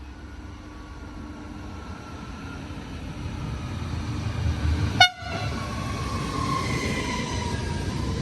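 A train approaching along the line, its running rumble growing steadily louder. About five seconds in there is one sharp, loud burst, after which the train runs on with high tones sliding slowly down over the noise.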